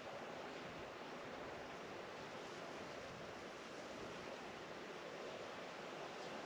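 Faint, steady rushing noise with no distinct events: even outdoor background ambience.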